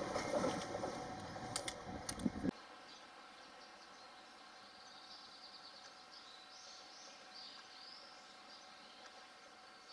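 A freight train of long Chiki flatcars hauled by an ED75 electric locomotive rolls past, its wheels rumbling with a few sharp clacks on the rail joints. The train noise cuts off suddenly about two and a half seconds in, leaving a quiet outdoor background with faint bird chirping.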